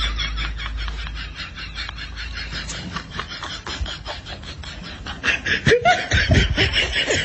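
People laughing in quick, rhythmic giggles, with louder bursts of laughter for the last couple of seconds.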